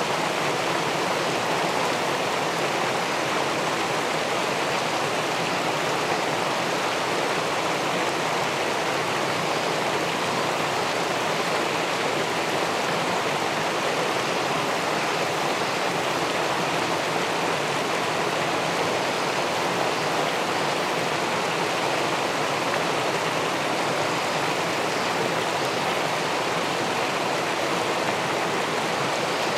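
Steady rush of river water pouring over a weir into the pool below, an even, unbroken sound with no change throughout.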